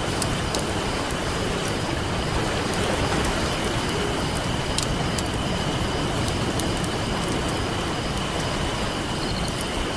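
Ocean surf washing steadily on a beach, with a campfire crackling in scattered sharp snaps over it.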